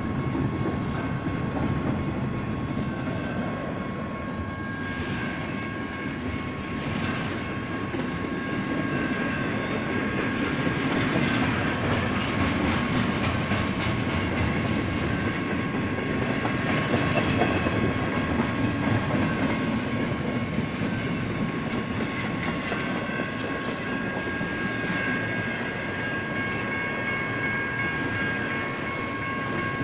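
Double-stack intermodal freight train rolling slowly through a grade crossing, its wheels clicking and rumbling over the rails. The crossing's General Signals electronic bells ring steadily throughout.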